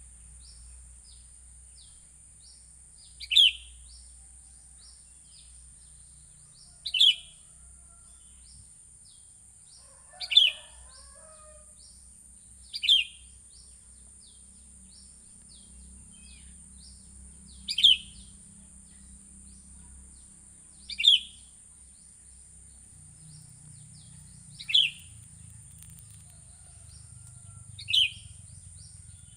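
Sooty-headed bulbul calling: a loud, short falling note every three to four seconds, with many faint quick chirps in between and a steady high hiss throughout.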